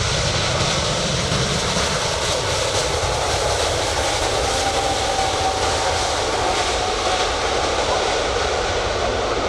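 Airbus A380's jet engines running as the airliner touches down and rolls out on the runway: a loud, steady rushing sound, with a faint steady whine in the middle.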